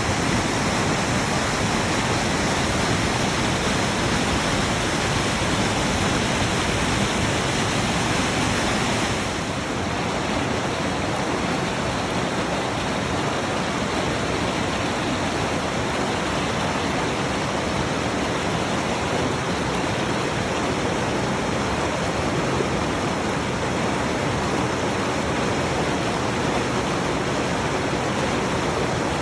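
Steady rushing of creek water or a waterfall. About nine seconds in it gets a little quieter and duller, then carries on evenly.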